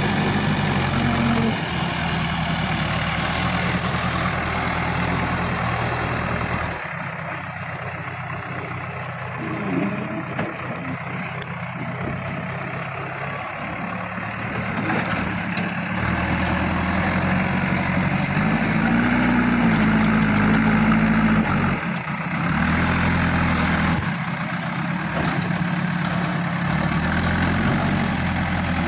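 Heavy diesel engine of a working machine running throughout, its revs stepping up and down as it works, and quieter for several seconds partway through.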